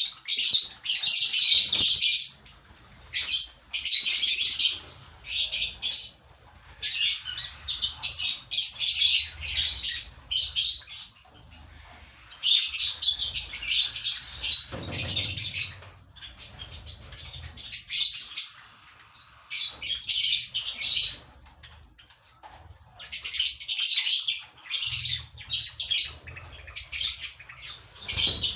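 A colony of lovebirds chattering and screeching shrilly in repeated bursts of a second or two, with short lulls between them.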